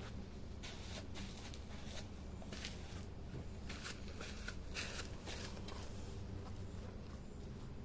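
Wood campfire burning, crackling with irregular small pops and snaps over a low steady rumble.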